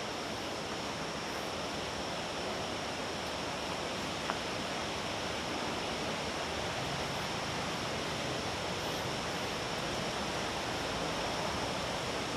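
Steady rushing of a river below, with a constant high-pitched insect drone over it and a single small click about four seconds in.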